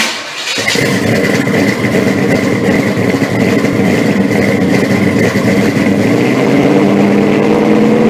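Loud car engine running steadily, with a thin high steady tone over it; the sound starts abruptly.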